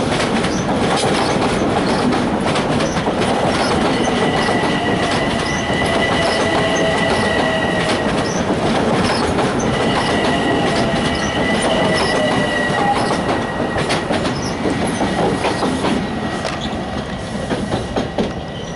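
LIRR M7 electric multiple-unit train passing close by, a steady rumble with wheels clicking over the rail joints. A high steady wheel squeal comes in twice, and the sound eases off near the end.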